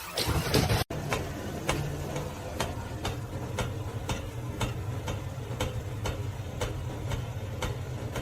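A regular ticking, about two clicks a second, over a low steady hum.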